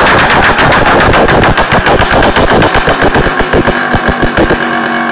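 Vespino R1 moped's 65cc single-cylinder two-stroke engine running loud at high revs, then dropping so the individual exhaust pops come apart and fluctuate from about a second and a half in.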